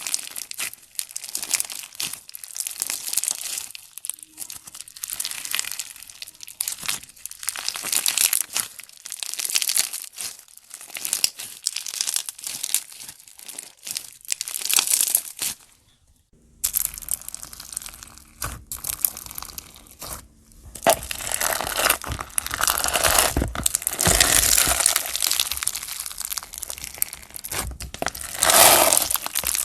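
Slime being squeezed and worked by hand, making a dense run of wet crackling and popping clicks. The sound breaks off briefly about halfway, then carries on.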